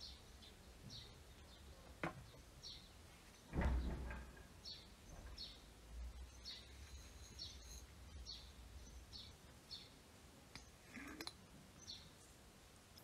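Birds chirping repeatedly in short high notes, about two a second, faint. A single low thump about three and a half seconds in, with a few light clicks.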